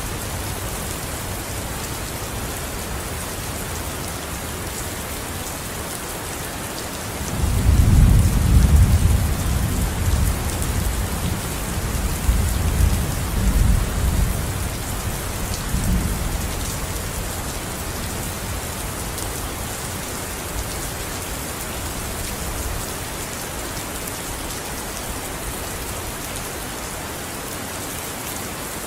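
Steady rain falling, with a roll of thunder that rises about seven seconds in, rumbles in several swells and dies away by about seventeen seconds.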